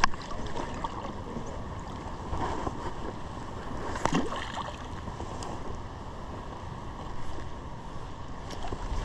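Outdoor water and wind noise: a stream running, with wind on the microphone, and one short sound falling in pitch about four seconds in.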